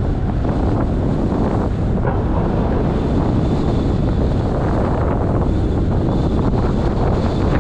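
Steady rumble of wind and road noise from a moving car, heavy in the low end.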